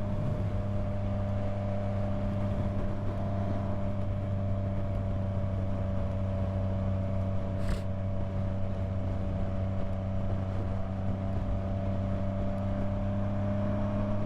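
Yamaha MT-09 inline three-cylinder motorcycle engine running at a steady cruise, its pitch holding constant. A single short click about halfway through.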